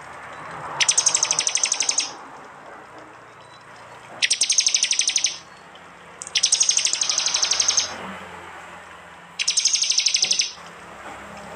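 A small songbird, a prinia (prenjak), gives its sharp, rapid chattering call, the 'tembakan' used to train cage birds, in four bursts of about a second each, spaced a couple of seconds apart, with a faint steady hiss between.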